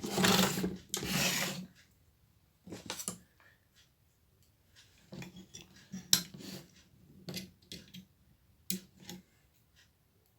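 Small metal parts and hand tools being handled while a horizontal output transistor is fitted onto a TV chassis board: a scraping rub at first, then scattered clicks and short scrapes.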